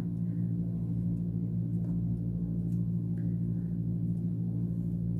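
A steady low hum made of several held tones, running unchanged throughout.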